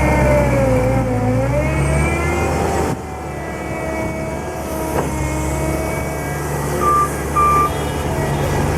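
JCB 205T skid steer loader's diesel engine and hydraulics running under changing load, the pitch rising and falling for the first few seconds before settling steadier. Two short beeps sound near the end, typical of a reversing alarm.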